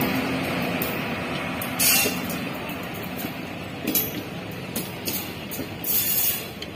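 Indian Railways passenger coaches rushing past at speed: a steady rumble and rush of wheels on rail, slowly fading, with several sharp clanks along the way.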